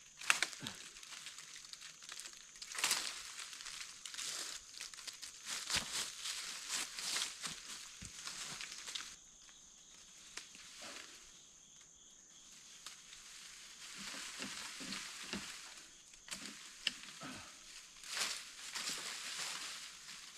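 Irregular crackling and rustling of dry brush and leaves being trampled or pulled, with a quieter stretch partway through and a faint steady high tone underneath.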